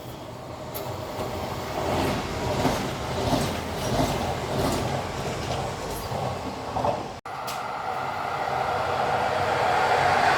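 Train running on the tracks, with a rumbling sound that swells and falls. It cuts off briefly about seven seconds in, then a steady rushing noise builds.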